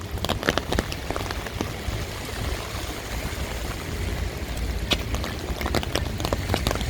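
Steady rain with many sharp, irregular drop ticks striking an umbrella held overhead, over a low rumble.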